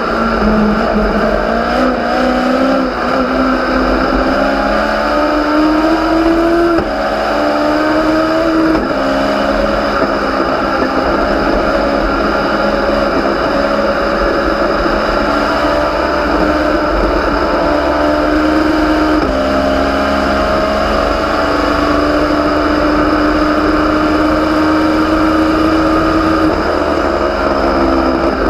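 Legends race car's Yamaha motorcycle four-cylinder engine at high revs under racing throttle. Its pitch climbs and drops sharply at two quick upshifts about 7 and 9 seconds in, then holds high and fairly steady, with a step in pitch about 19 seconds in and a drop near the end.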